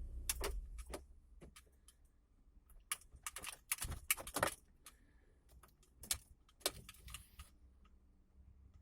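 Car keys clicking and jangling on their keyring at the ignition switch: a scattered series of sharp clicks and short rattles. A faint low hum fades out about a second in and comes back near the end.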